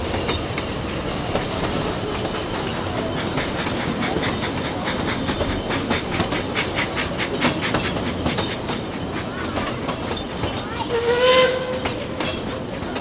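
Narrow-gauge steam train carriages rolling past close by, their wheels clacking over the rail joints in quick, even strokes through the middle. A short pitched call rising in pitch about eleven seconds in is the loudest moment.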